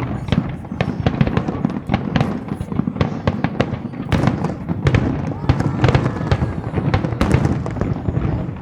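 Aerial firework shells bursting in rapid, overlapping succession: a dense run of sharp bangs and crackles over a low rumble of echoing booms.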